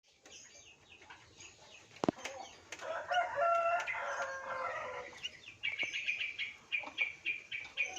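Sooty-headed bulbuls calling while the chick is fed. A longer call of several sliding notes comes a few seconds in, then a fast run of short high chirps, about four a second, in the second half. There is a sharp tap about two seconds in.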